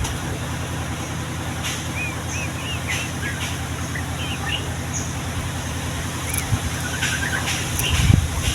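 Steady low engine-like rumble, as of passing traffic, with a few short bird chirps over it. Near the end the rumble swells louder.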